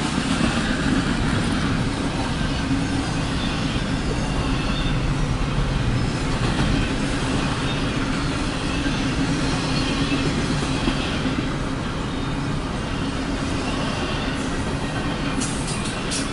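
Double-stack intermodal container cars of a CSX freight train rolling past, a steady rumble of steel wheels on rail with some clickety-clack. A few sharp clicks come near the end.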